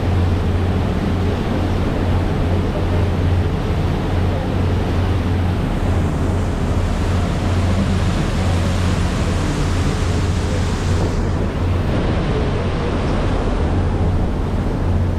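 A boat's engine droning steadily under rushing wind and water noise. The hiss of wind and water swells for a few seconds mid-way.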